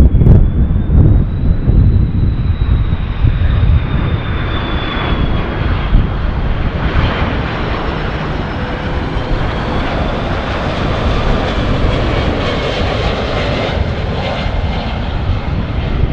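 Airbus A330 jet engines running as the airliner flies past, probably on its landing approach. A thin high whine drifts slowly up and back down over a steady deep rumble, with wind noise on the microphone.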